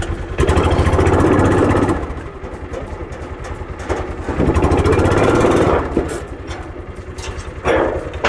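Vehicle engine idling and revved twice, each rev held for about a second and a half, with a shorter rise near the end.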